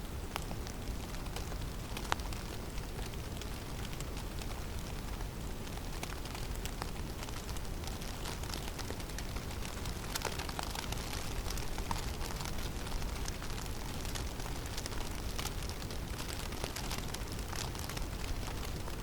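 Snowstorm ambience in a conifer forest: a steady low wind rumble with frequent small ticks of falling snow striking surfaces, and one sharper tick about two seconds in.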